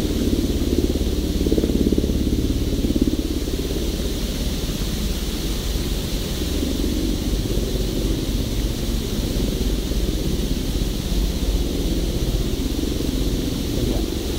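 Steady low rumble and noise of a vehicle on the move.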